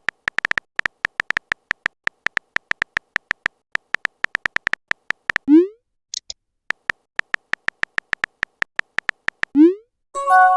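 Chat-app sound effects: a rapid, uneven run of short electronic keyboard clicks, like a message being typed, broken twice by a short rising blip like a message being sent, about halfway through and near the end. A chime begins right at the end.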